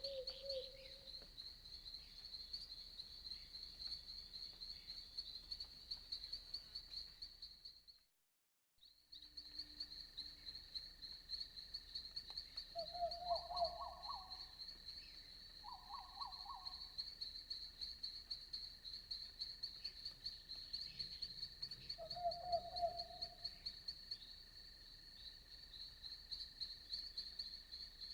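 Crickets chirping steadily in a fast, even pulse, with a few short, lower trilled frog calls about 13, 16 and 22 seconds in. The sound drops out completely for about a second around 8 seconds in.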